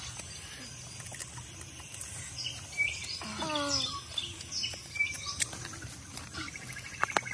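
Birds chirping outdoors throughout. A short voice sound with a wavering pitch comes a little over three seconds in, and a couple of sharp clicks come near the end.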